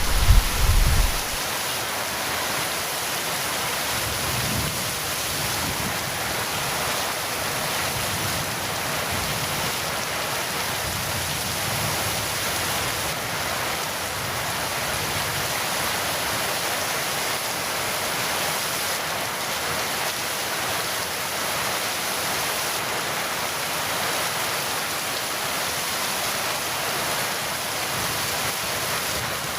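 Heavy rain falling steadily in an even hiss, with the last of a thunder rumble dying away in the first second or so.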